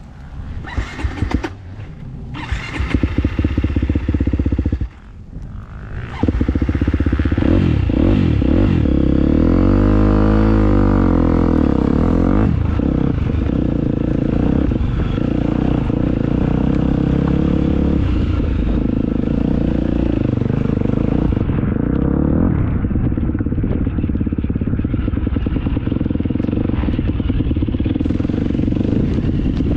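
Motocross dirt bike engine running unevenly, cutting out briefly about five seconds in, then running steadily with the revs rising and falling soon after.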